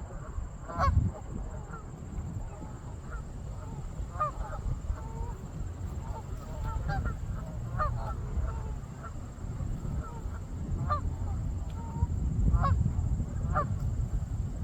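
Canada geese honking, many short calls from several birds following one another irregularly, the loudest about a second in.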